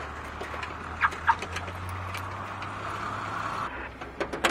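Car engine idling, with a steady hiss over it that cuts off suddenly near the end. Two sharp clicks come about a second in, and a quick cluster of clicks and knocks comes right at the end.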